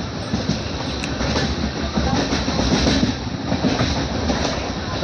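Passenger train running at speed, a steady rumble with the wheels clattering over rail joints, heard from aboard a sleeper coach.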